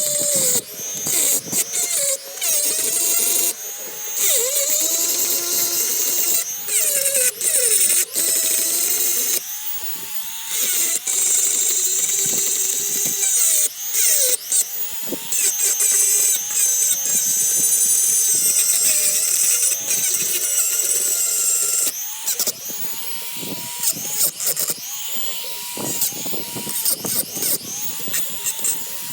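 Small electric power tool working metal, its motor pitch repeatedly sagging and recovering as it is pressed on and eased off, with a high abrasive hiss and frequent short pauses.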